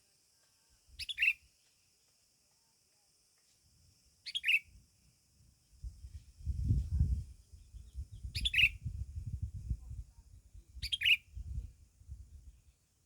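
A bird giving four short, sharp chirps spaced a few seconds apart, each one dropping quickly in pitch. A low rumble, like wind or handling on the microphone, comes in about four seconds in.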